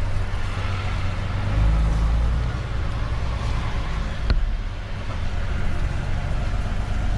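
A vehicle engine running steadily, a low rumble that swells for a couple of seconds about a second and a half in, with a single sharp click about four seconds in.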